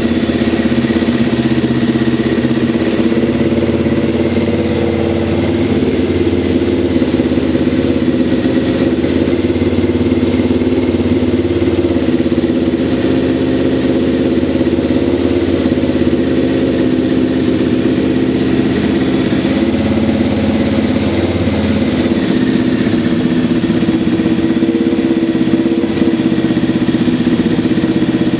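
Kawasaki ZZR1100 C's inline-four engine idling steadily, running again after a long lay-up on fresh fuel, a new battery and new spark plugs.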